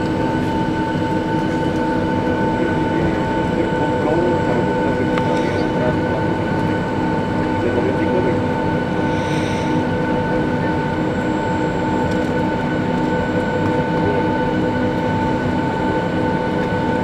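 Cabin noise of a Boeing 757 taxiing on idle thrust from its Rolls-Royce engines: a steady whine with several held tones over a constant rumble.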